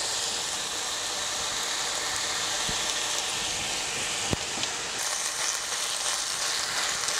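Rice and chopped vegetables sizzling steadily in hot olive oil in a pan, with one sharp tap about four seconds in. From about five seconds in, a silicone spatula stirs through the rice.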